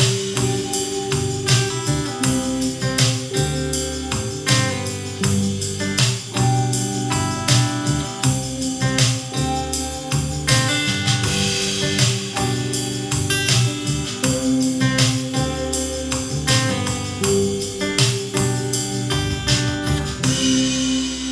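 Instrumental music with a steady beat and sustained pitched notes, played through Yamaha NX-E400 speakers driven by a Yamaha RX-V767 receiver and picked up by a phone's microphone.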